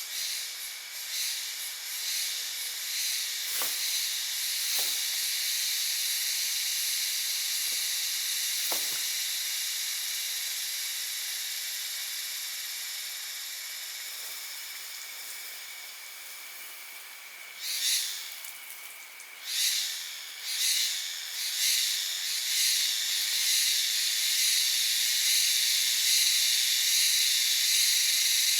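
A chorus of forest insects, such as cicadas, keeps up a steady high-pitched drone, swelling in several short pulses about two-thirds of the way through. A few light knocks or drips sound in the first third.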